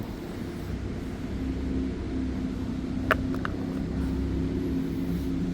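Distant jet boat engine running steadily, a low hum that swells slightly, with one brief sharp sound about three seconds in.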